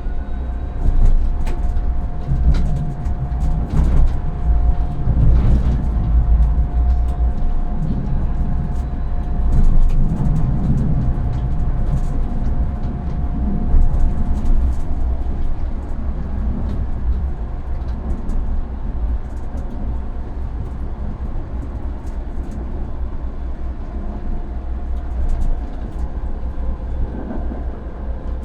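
Tram running along the track, heard from inside the driver's cab: a steady low rumble with scattered clicks and knocks. A steady hum fades out about halfway through.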